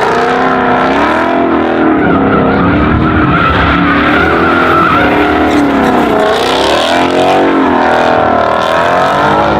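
Drift car's engine revving up and down over tyre squeal as the car slides, loud and continuous.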